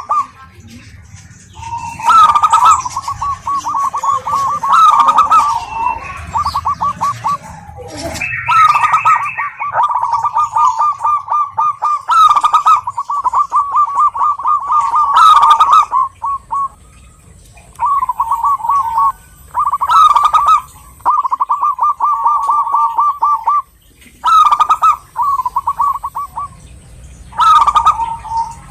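Zebra doves (perkutut) cooing in repeated phrases: each phrase is a louder opening note followed by a rapid run of pulsed notes, broken by short pauses.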